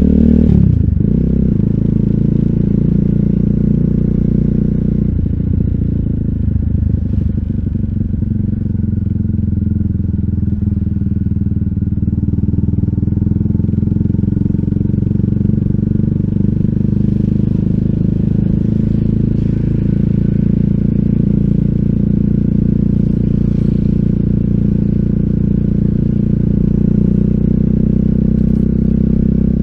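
RUSI Classic 250Fi motorcycle engine running through an Eli's Muffler full exhaust with a bullet-pipe slip-on and dB killer, a steady low exhaust note while riding. The pitch drops quickly right at the start and changes again about five seconds in.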